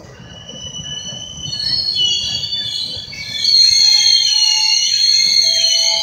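GO Transit bilevel passenger coaches rolling slowly past with a high-pitched, wavering squeal from their wheels and brakes over a low rumble. The squeal swells about a second and a half in and grows much louder about three seconds in as the train slows.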